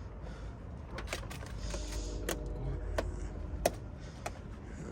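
Scattered sharp clicks and taps, about six over the few seconds, over a low steady hum, with faint voices in the background.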